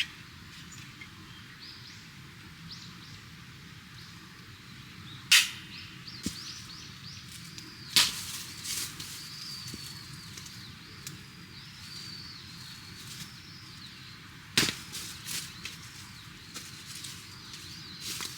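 A few sharp wooden cracks or snaps, the loudest about five seconds in and others near eight and fourteen seconds, over a run of high, curving bird chirps in the middle.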